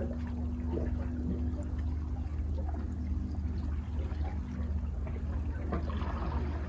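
Sea water washing and trickling among rocks at the foot of sea cliffs, over a steady low rumble of surf.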